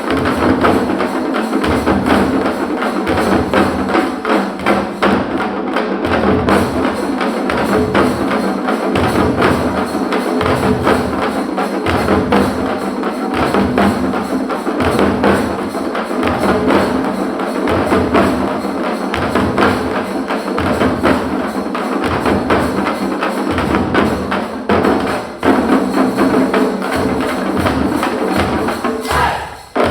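Ensemble of parai, traditional Tamil frame drums, beaten with sticks in a fast, driving, unbroken rhythm. The drumming briefly breaks off near the end.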